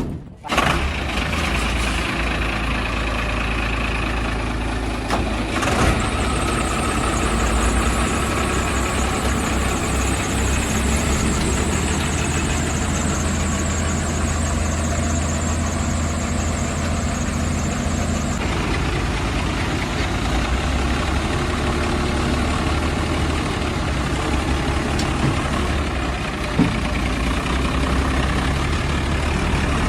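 Heavy diesel engine running steadily, with a thin high whine for about ten seconds in the first half.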